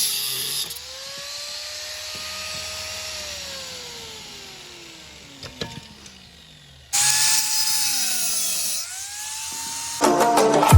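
An electric cutting tool on a fridge compressor's steel shell: a harsh hiss of cutting, then the motor's whine winds down slowly. About seven seconds in it cuts again with a sudden loud hiss and whine.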